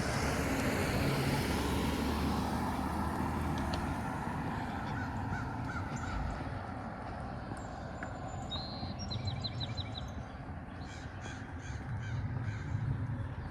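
Birds calling outdoors: a few short calls near the middle, then a quick run of about five high chirps a little past halfway, over a steady low background rumble.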